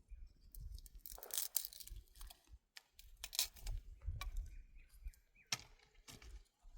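Dry brush and branches snapping, crackling and rustling in irregular bursts, with low knocks among them, as firewood is handled.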